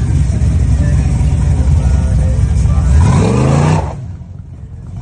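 Box Chevy's engine and exhaust rumbling loudly as the car pulls away. About three seconds in it revs up sharply, rising in pitch, and then the sound drops away suddenly.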